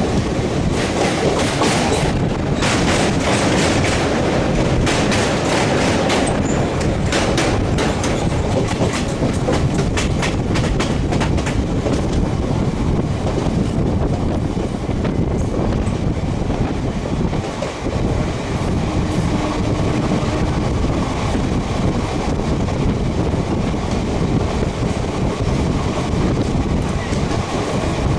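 Express passenger train running at speed: a steady rumble of wheels on rails, with a rapid clatter over rail joints that is densest in the first third and eases into a smoother roar after that.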